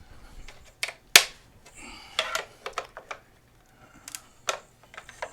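Hard plastic shroud panels of a mobility scooter being handled and clicked into place: a run of sharp plastic clicks and knocks, the loudest about a second in.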